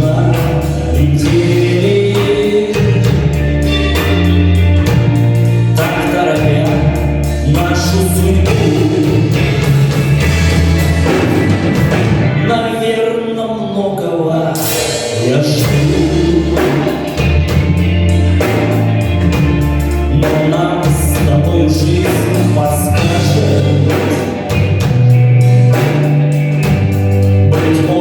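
A band playing live: a stepping bass line, steady drum hits and a gliding melody line over them, with singing-like voices in the mix.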